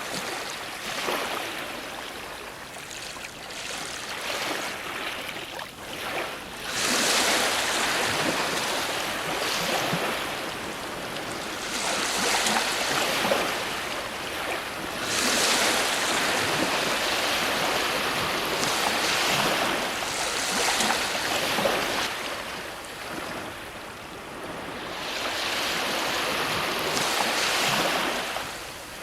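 Ocean waves breaking on a shore, several surges of surf a few seconds long, each swelling up and washing back down.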